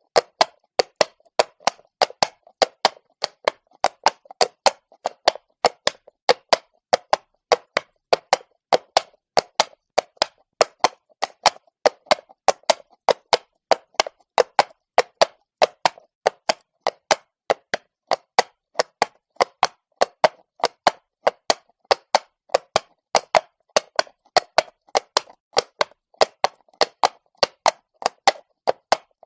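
Horse's shod hooves walking on cobblestones, a steady train of sharp clacks, about two or three a second in the even four-beat rhythm of a walk.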